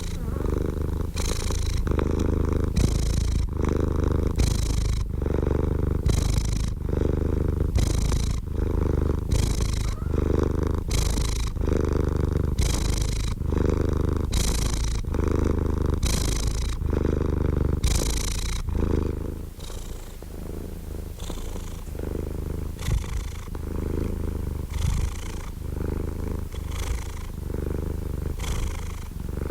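Domestic cat purring steadily, a low rumble that swells and eases with each breath about once a second. The purr grows quieter about two-thirds of the way through.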